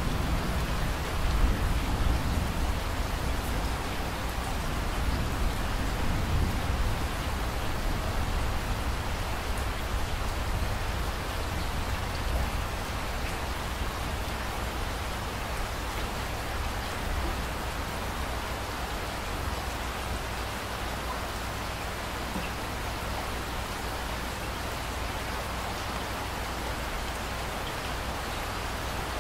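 Steady heavy rain: a dense, even hiss of falling rain with a low rumble underneath, a little louder in the first few seconds.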